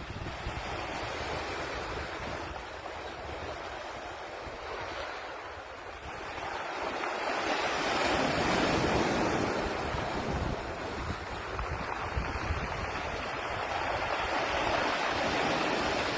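Sea waves washing in and out over a pebble beach, the surf swelling louder about halfway through and again near the end.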